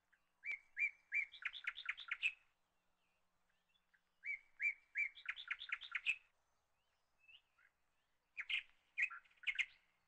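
A songbird singing three phrases. Each starts with a few even, repeated notes and runs into a quick series of notes.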